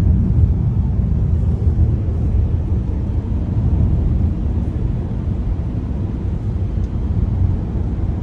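Boat engine running steadily, a loud low rumble heard from aboard the boat.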